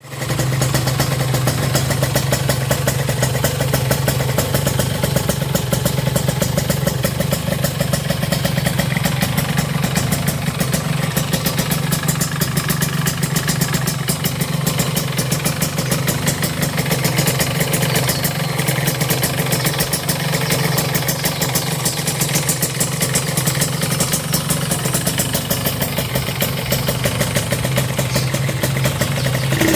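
Yamaha RX-King's single-cylinder two-stroke engine idling steadily through an original Aitech aftermarket exhaust, with an even, rapid popping beat.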